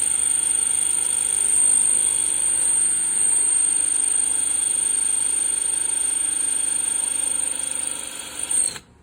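Electric drill running steadily with a high whine as it bores a drainage hole through a flower pot. It stops suddenly near the end.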